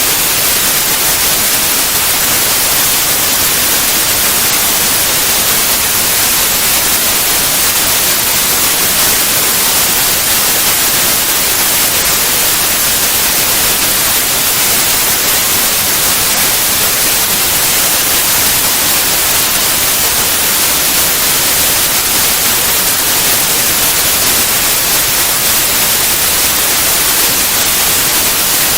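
Steady, loud white noise: an even, unchanging hiss strongest in the high frequencies.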